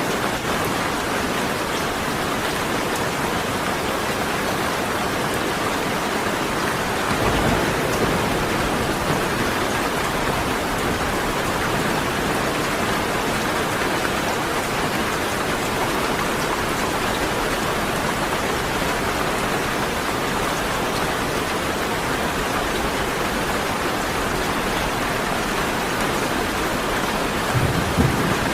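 Steady heavy rainfall with an even hiss throughout. A low thunder rumble comes in about seven seconds in, and a louder roll sounds near the end.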